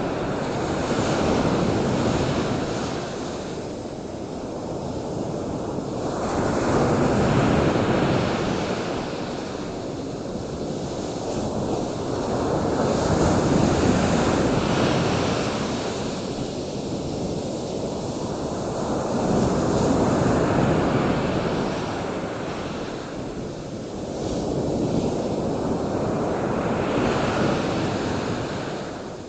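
Ocean surf: waves breaking and washing in, the noise swelling and fading about every six to seven seconds.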